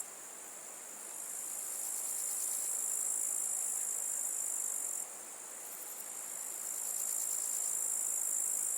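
Insects shrilling in a steady, high-pitched chorus, dipping briefly twice before swelling back.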